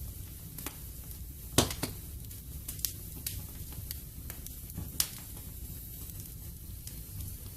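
Wood fire in a fireplace crackling: a low steady rumble and hiss with scattered sharp pops, the two loudest about one and a half seconds and five seconds in.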